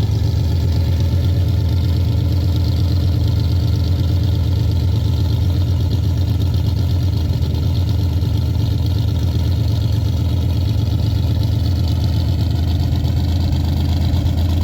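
Car engine running steadily with road noise, heard from inside the cabin: a constant low hum with no change in pitch.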